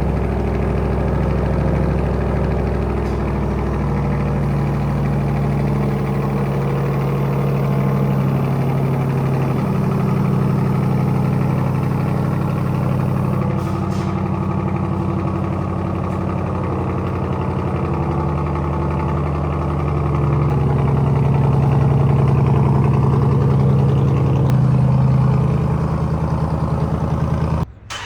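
Ram TRX's supercharged 6.2-litre V8 idling through a straight-piped side-pipe exhaust with the mufflers removed. It runs steadily, its pitch shifting slightly up and down a few times.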